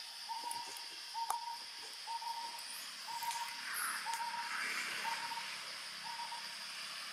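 A bird calling a repeated hoot, short notes on one pitch at about one a second, over a steady high-pitched insect drone.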